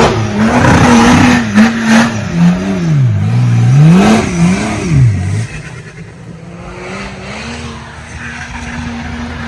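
Off-road vehicle engine revved hard in repeated surges, its pitch climbing and falling several times. About five seconds in it drops back to a quieter, steadier running note.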